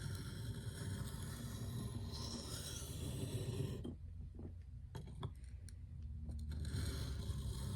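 Hardened Nitro-V steel knife blade stroked freehand across a sharpening stone, a steady gritty scraping while the last low spot in the edge is ground out. The strokes stop about four seconds in, with a few light taps, and start again near the end.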